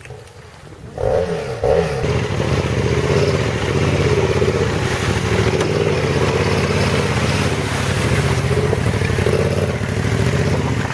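Motorcycle engine starts sounding about a second in, then runs steadily with a slightly wavering pitch.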